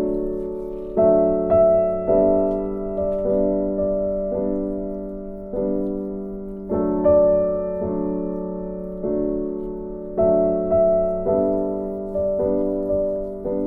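Slow background piano music: soft chords and single notes struck about once a second and left to ring and fade.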